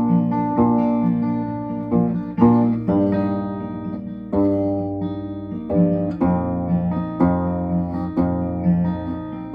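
Octave ukulele tuned EADG like a bass guitar, playing an instrumental passage of plucked notes and chords; each note starts sharply and rings out as it fades.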